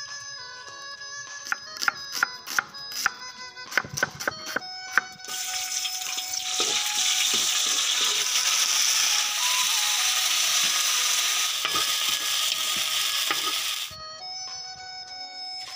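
A run of sharp taps on a wooden chopping board, then garlic and ginger sizzling loudly in hot oil in a wok as they are stirred, beginning about five seconds in and cutting off abruptly near the end. Background music plays throughout.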